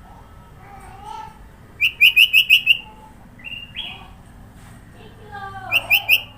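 Sooty-headed bulbul (kutilang) singing: a quick run of about six sharp chirps, a few shorter notes, then lower warbling notes and another run of three chirps near the end.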